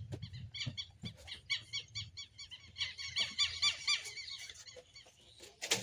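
Small birds chirping in quick, repeated high notes, busiest about three seconds in. A few faint knocks sound under them, and a sharp knock comes near the end.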